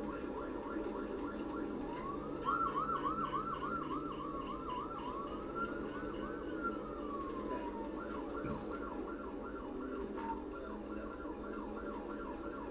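Police car siren running in a fast yelp, about four warbles a second, switching to two slow rising-and-falling wails in the middle, over a steady low vehicle rumble.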